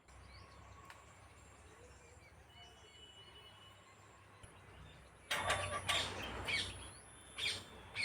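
Birds chirping outdoors: faint calls over a quiet background at first, then louder, sharper repeated calls from about five seconds in.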